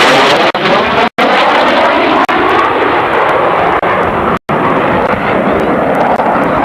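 Aircraft flying low past at airshow volume, a loud engine rush whose pitch slowly falls as it goes by. The sound drops out briefly twice.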